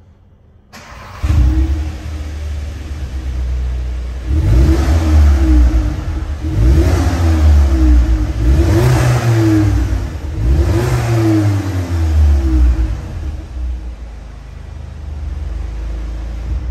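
A VW Polo GTI's 2.0-litre turbocharged four-cylinder petrol engine starts up about a second in and settles to a fast idle. It is then revved several times, each rev rising and falling in pitch, before dropping back to a steady idle.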